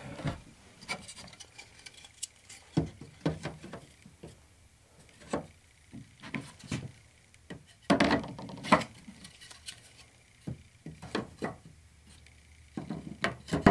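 Wooden beehive parts being handled: irregular knocks, clacks and scraping as wood slides and bumps against wood, with a louder cluster of knocks about eight seconds in.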